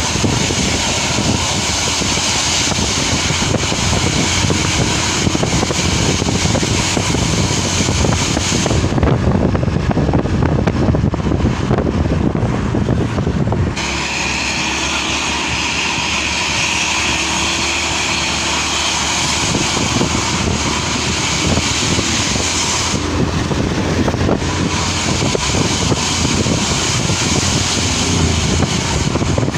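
Ambulance's modified 'jet' exhaust (knalpot jet) running loudly with a continuous jet-like rushing sound; its high hiss cuts out for a few seconds twice.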